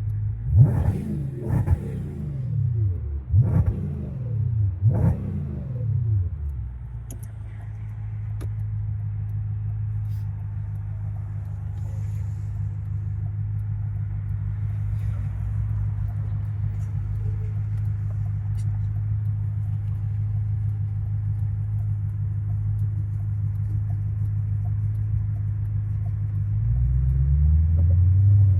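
2006 Audi S4 Avant's 4.2-litre V8 revved in four quick blips, each rising and falling back, then holding a steady low note before rising again near the end.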